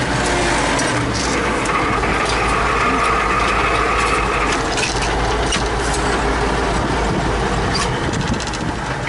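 Heavy tractor diesel engine running steadily under way, with a low rumble and scattered knocks and rattles. It is likely one of the T-150K wheeled tractors.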